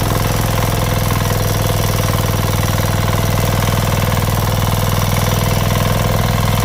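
A small engine running steadily at a constant speed, with a fast even chug.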